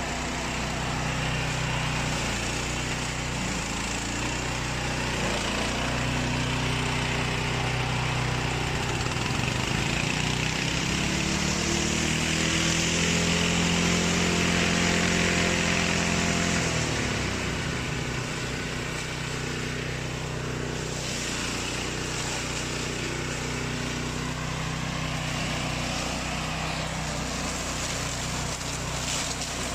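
Engine of a remote-control flail mower running steadily. About a third of the way in it speeds up and gets louder, then drops back to its earlier pitch just past halfway.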